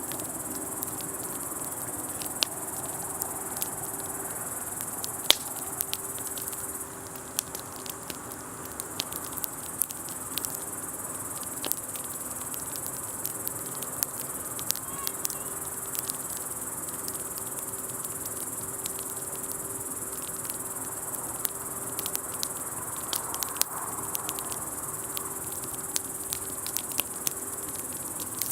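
Wood campfire crackling, with irregular sharp pops and snaps, over a steady high chirring of crickets.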